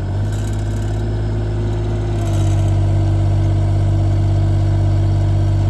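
Bobcat E35 mini excavator's diesel engine running steadily. A little over two seconds in, it steps up to a louder, higher-powered note and holds there.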